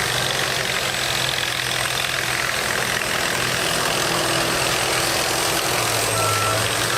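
Heavy machine's engine running steadily at a low, even pitch.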